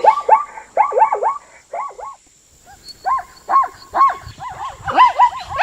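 An animal's rapid series of short, arched calls, a few a second. The calls break off about two seconds in and resume after a short pause.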